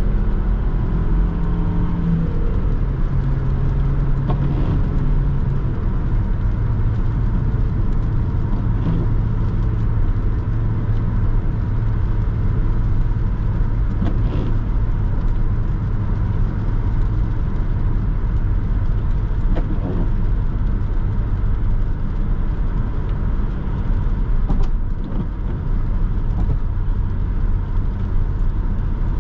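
Renault Laguna II's 1.8-litre 16-valve four-cylinder petrol engine running at a steady cruise, heard from inside the cabin together with tyre and road noise on a wet road. The engine note drops in pitch twice in the first six seconds, then holds steady.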